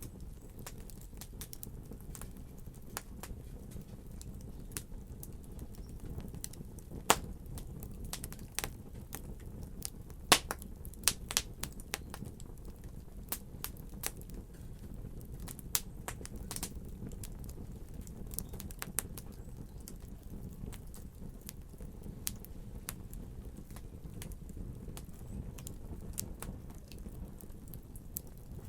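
Wood fire burning in a fireplace: a steady low rumble of the flames with frequent sharp crackles and pops, the loudest pops about 7 and 10 to 11 seconds in.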